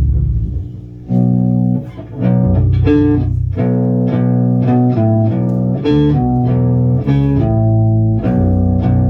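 Electric bass guitar playing a riff, starting again: a low note dies away in the first second, a short break follows near two seconds in, then a steady run of short, clipped notes.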